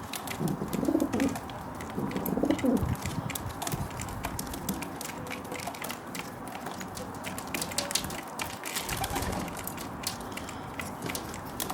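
Feral pigeon cooing low a few times in the first three seconds. Beak pecking at sunflower seeds on a window sill runs throughout, making many quick, irregular clicks.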